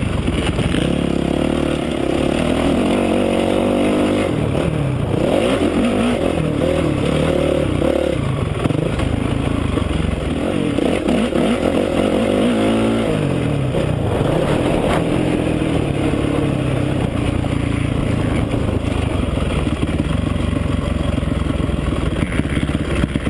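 Honda CRF450R's single-cylinder four-stroke motocross engine, heard from an on-board camera while riding, its pitch rising and falling over and over as the throttle is opened and closed.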